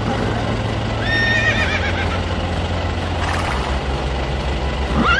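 A horse whinnying: a high, wavering call about a second in, and a shorter whinny starting near the end. A low steady hum runs underneath and drops in pitch a couple of times.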